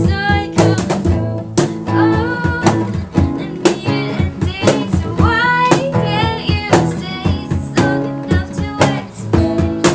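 Strummed acoustic guitars with a woman singing, kept in time by a beatboxer's vocal kicks and snares.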